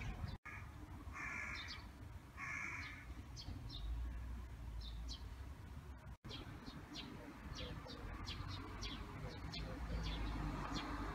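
Birds calling outdoors: two calls from a larger bird, each about half a second long, near the start, then many short, high chirps from small birds, over a low rumble of outdoor background noise.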